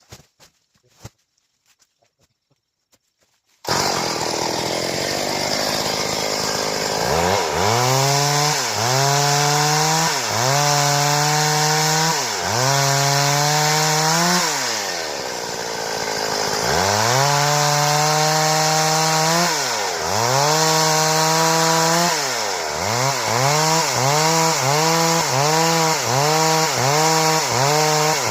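A Stihl chainsaw cuts boards. The saw comes in suddenly about four seconds in at full speed. From about seven seconds in its engine pitch drops and recovers every couple of seconds as the chain bogs in the wood and frees up, and the dips come faster near the end.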